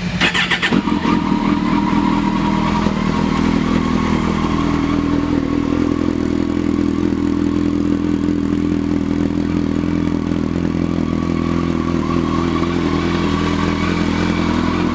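A 2011 Kawasaki Concours 14's 1,352 cc inline-four, fitted with a Two Brothers aftermarket exhaust, running steadily at idle after a short blip of throttle at the start.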